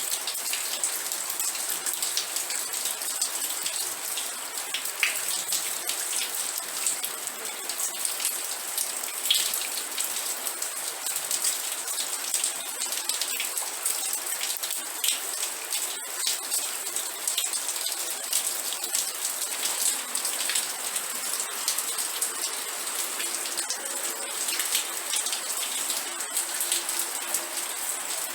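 Steady rain falling, a dense hiss of many small drop impacts with individual patters standing out.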